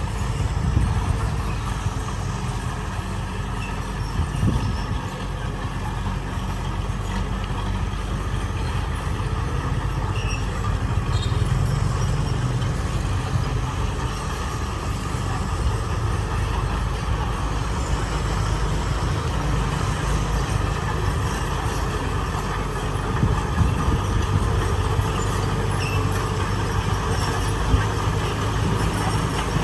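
Heavy diesel engine of earth-moving machinery running steadily, with a deep, even engine sound and a few small knocks.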